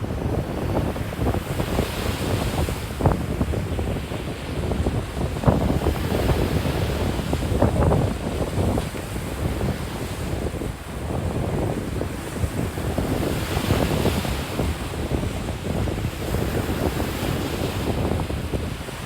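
Atlantic surf breaking and washing up the beach, swelling twice, with wind gusting on the microphone.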